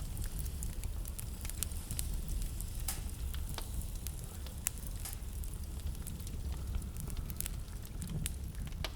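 Wood fire burning in a fireplace, with a low steady rumble of the flames and frequent irregular sharp crackles and pops.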